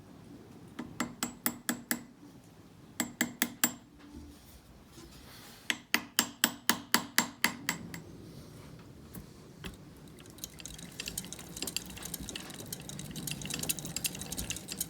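Small hammer tapping a new drive shaft key into place on a miniature locomotive's axle: three runs of quick, ringing metal taps, about four or five a second. About ten seconds in, a fast, light ticking rattle sets in.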